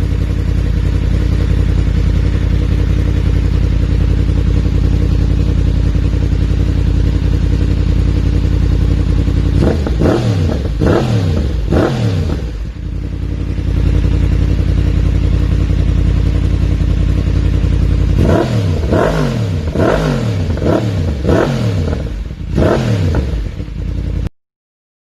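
Yamaha MT-10's crossplane inline-four engine through an Akrapovič GP exhaust, idling steadily. It is blipped three times about ten seconds in, then in a quicker run of about six blips near the end, each rising and falling in pitch, before the sound cuts off suddenly.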